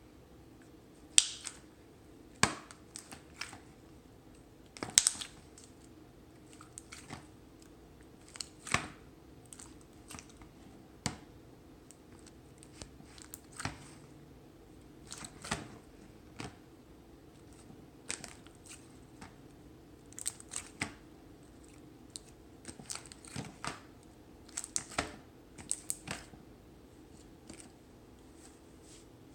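Crunchy slime being worked, with irregular sharp pops and crackles of bursting air bubbles, some single and loud, others in quick clusters.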